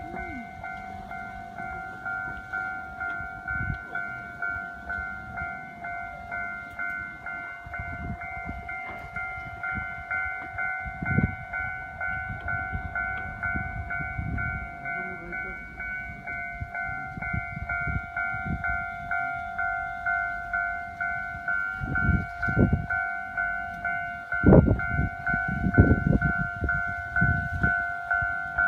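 Japanese level-crossing warning bell clanging steadily at about one and a half strokes a second, while a train rumbles past with heavy low thuds that grow louder in the second half.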